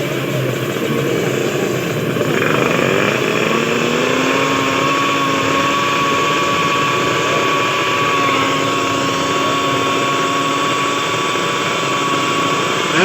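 Drag-racing motorcycle engine running at steady, raised revs, its pitch rising slightly about three seconds in and then holding.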